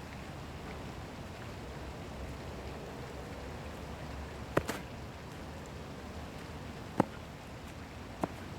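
Three sharp impacts from a martial artist performing the Shaolin swallow form, against a steady background hiss.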